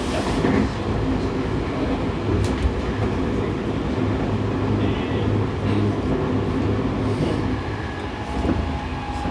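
Seibu 6000 series electric train running between stations, heard from inside a motor car: a steady rumble of wheels on rail with a few faint clicks.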